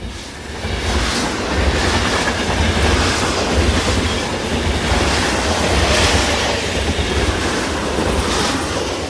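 A train running along its track: a loud, steady low rumble with scattered clatter, fading in at the start and fading out after.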